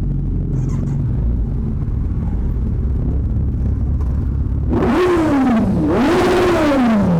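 Low steady rumble of idling motorcycle engines, then, almost five seconds in, a superbike engine revved hard twice, its pitch climbing and dropping with each blip of the throttle.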